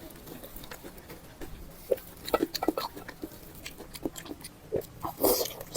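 Close-up eating sounds: wet chewing and lip-smacking with scattered mouth clicks, in irregular bursts that are busiest a couple of seconds in and again near the end.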